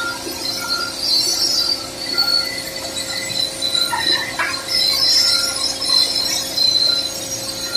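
Simba S7D long-hole drill rig's hydraulic top-hammer rock drill drilling rock through T-38 extension rods: a steady, loud mechanical racket with high metallic ringing and squeal from the drill string.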